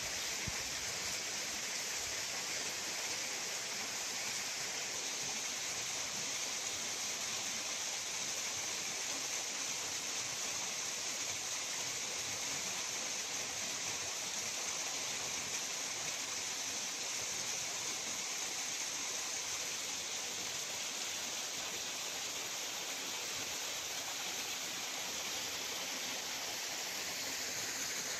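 Steady rush of a waterfall pouring over rocks.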